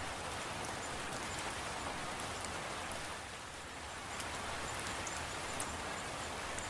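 Steady rain falling, with scattered sharp drop ticks; it eases slightly for a moment a little past halfway.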